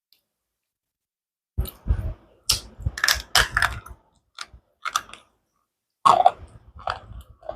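Slate pencils being bitten and chewed: an irregular run of sharp crunches that begins after about a second and a half of silence.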